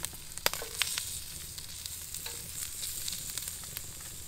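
Hot dogs sizzling on a ridged cast-iron griddle over a wood fire, with a steady hiss and scattered crackles. A few sharp clicks in the first second, the loudest about half a second in, come from metal tongs turning the hot dogs on the griddle.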